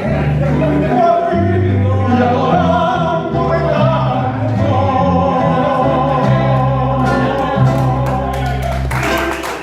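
A band playing a song with a sung vocal over long held bass notes. The music stops near the end and clapping begins.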